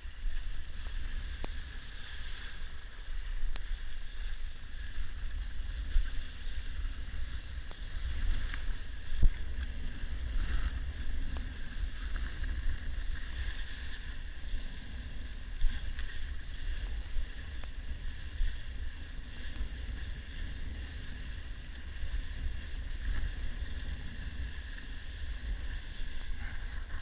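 Wind buffeting the microphone in a low, gusting rumble over the wash of waves, with a few brief knocks.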